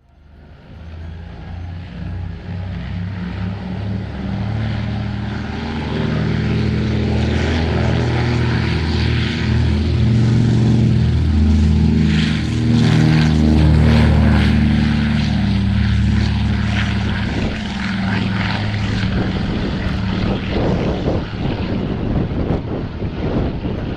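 Consolidated PBY-6A Catalina's twin Pratt & Whitney R-1830 radial engines running in flight. The sound swells from nothing to its loudest about halfway through, then eases a little.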